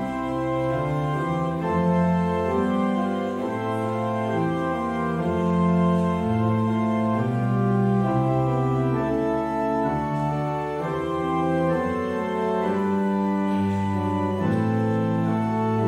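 Organ music: sustained chords that change about once a second over a moving bass line, with no speech or singing.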